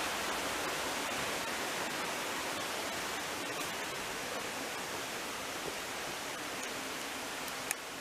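Steady rushing noise with no clear pitch, easing off slightly over the stretch, and one sharp click near the end.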